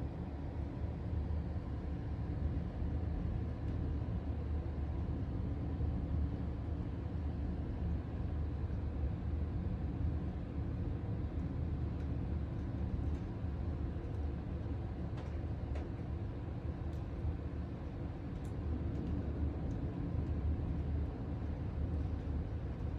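A steady low rumble with a few faint clicks in the second half.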